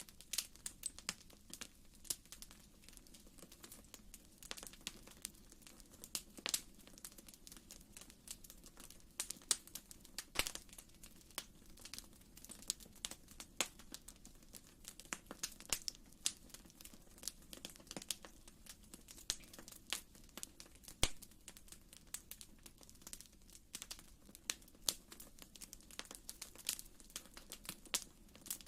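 Wood fire crackling in a fireplace: irregular sharp pops and snaps, several a second, over a soft low rush.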